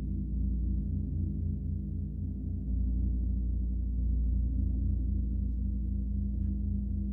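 Gong sounding a deep, sustained hum that pulses and wavers steadily, with no distinct strike; it swells louder about three seconds in.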